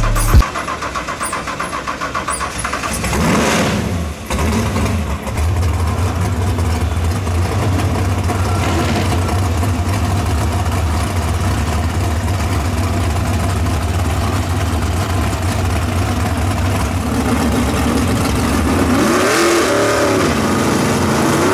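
Drag car's engine idling with a pulsing, uneven beat, revving up about three seconds in, then held at high revs through a long burnout until near the end, when it is revved up and let back down once.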